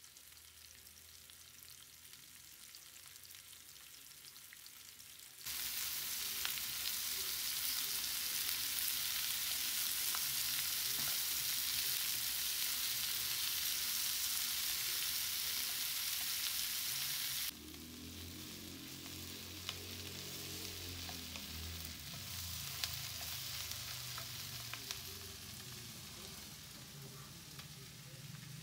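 Sliced onions sizzling as they fry in a non-stick pan, stirred now and then with a wooden spoon. The sizzle jumps suddenly louder about five seconds in and drops back just as suddenly about twelve seconds later.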